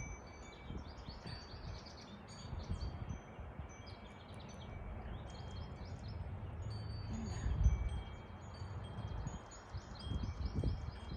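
Songbirds singing outdoors, with repeated chirps, trills and held high whistled notes, over a low rumble. A dull thump about two-thirds of the way through.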